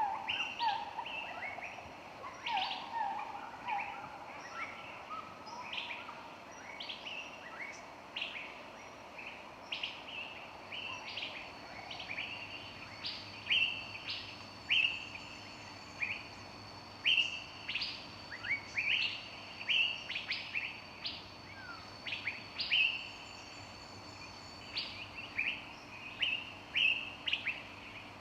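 Several songbirds singing together in woodland: a steady stream of short, quick chirps, with a few lower warbled notes in the first few seconds and some long high whistled notes from about halfway through.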